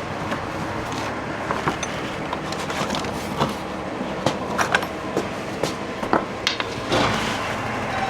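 Scattered, irregular clicks and knocks of metal equipment being handled and readjusted, over a steady background hum. The knocks come more often in the second half.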